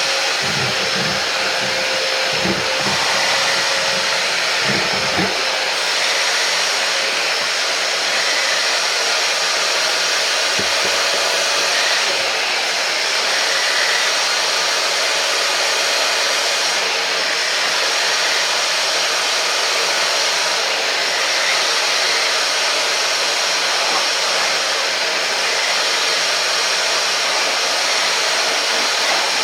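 Hoover Powerdash Go Pet portable carpet spot cleaner running, its suction motor giving a loud, steady rush. A few low bumps come in the first five seconds and once more about ten seconds in.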